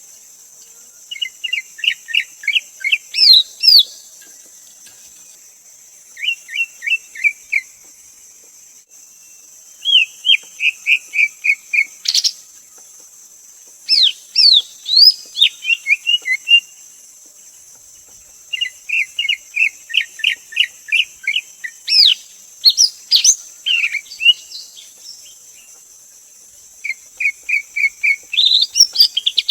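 Greater green leafbird singing: about seven quick phrases of rapid, repeated whistled notes, each a second or two long, with short pauses between. A steady high insect drone runs behind.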